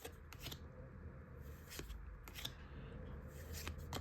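Pokémon trading cards being handled and flipped through: a few light, scattered clicks and rustles of card against card.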